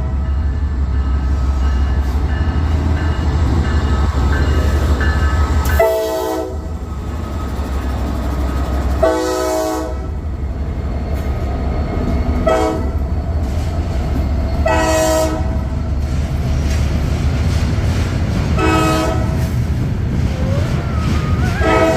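Norfolk Southern locomotive's air horn sounding about six separate blasts of a chord, most short and two about a second long, over the steady low rumble of the passing train.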